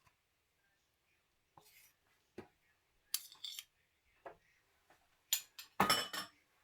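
Kitchen utensils and dishes being handled while making tiramisu truffles: a few scattered clicks and scrapes, with a louder clattering burst near the end.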